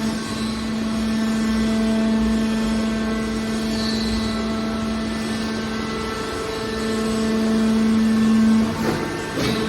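Hydraulic power unit of a scrap car baler running with a steady hum, growing louder for a couple of seconds past the middle, then a few sharp metal knocks near the end.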